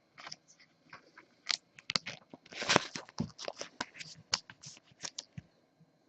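Baseball cards being handled: a run of small clicks, scrapes and crinkles as cards are slid and shuffled, with a louder rustling scrape about halfway through.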